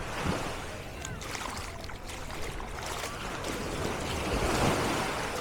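Sea waves washing onto the beach, a steady rush of surf that swells about four seconds in, with faint scattered voices of people around.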